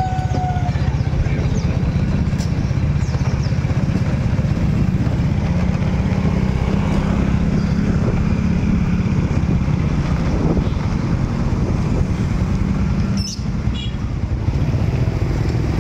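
Steady low rumble of motorcycle and street traffic running, with a short dip and click about 13 seconds in.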